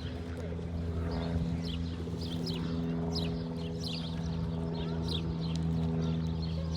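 Wild birds calling in many short, high, falling chirps over a steady low machine hum.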